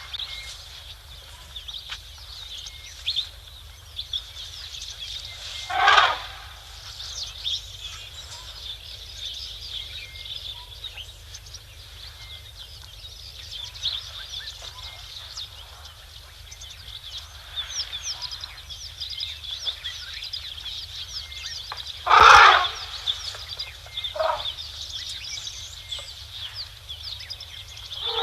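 A dense chorus of small birds chirping steadily in the bush. It is broken by two loud, short calls about 6 seconds and 22 seconds in, and a fainter one soon after the second.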